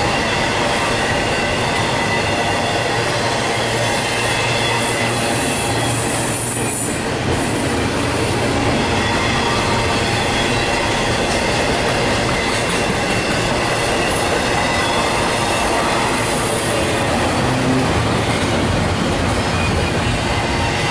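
Double-stack container freight cars rolling past at steady speed: a constant rumble of steel wheels on rail, with thin, steady high squealing tones from the wheels.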